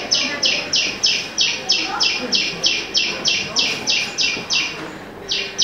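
Bird chirping in a quick, very even series of short, high, falling chirps, about three a second, with a brief break near the end.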